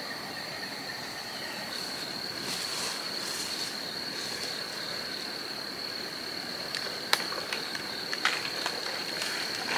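Insects chirring in one steady high-pitched tone, with a few sharp clicks or knocks near the end.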